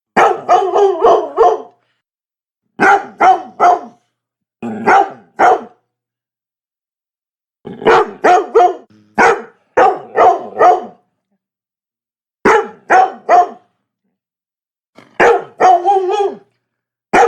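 Labrador barking in quick volleys of two to five sharp barks, with about a second of silence between volleys, repeated throughout.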